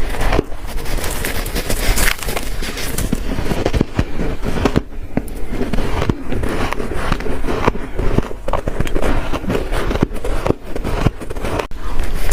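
Close-up crunching of ice being bitten and chewed: a dense, continuous crackle of brittle crunches.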